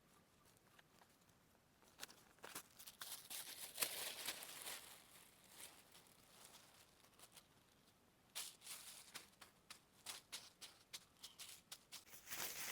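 Dry crinkling and rustling of material being handled, in two spells of quick, crackly rustles separated by a few quiet seconds.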